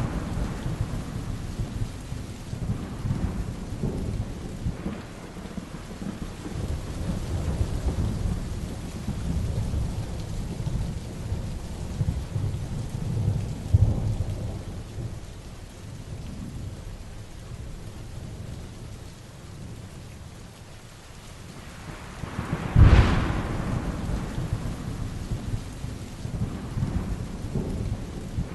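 Heavy rain falling steadily, with low thunder rumbling throughout. A smaller roll of thunder swells near the middle, and a sharp, loud thunderclap cracks about three-quarters of the way through, then rumbles away.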